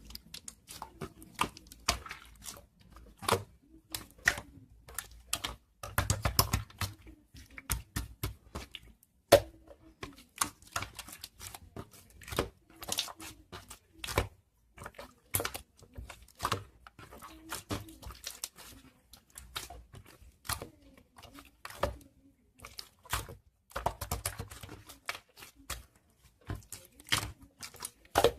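Crunchy slime being squeezed and pressed by hand, giving a dense, irregular run of sharp crackling clicks and pops.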